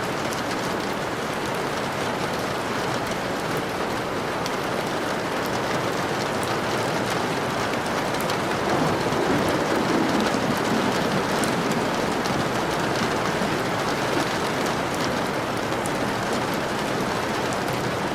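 Steady rain falling, with fine drop ticks through it. A low rumble of distant thunder swells about halfway through and then fades.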